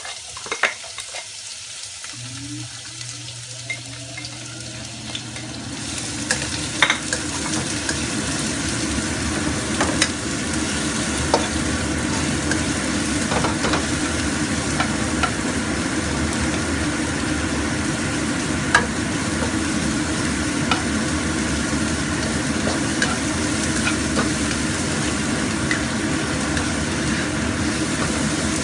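Sliced garlic and shallots sizzling in hot oil in a nonstick wok. The sizzle builds over the first few seconds as they go in, then runs steadily, with scattered taps and scrapes from a spatula stirring them.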